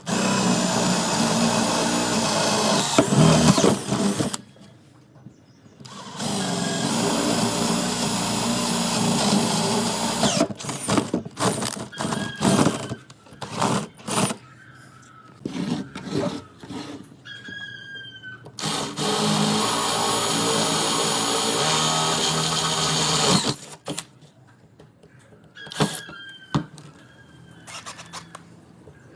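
Handheld power tool, likely a drill, running in long stretches of several seconds and in many short on-off bursts, with a few brief squeaks.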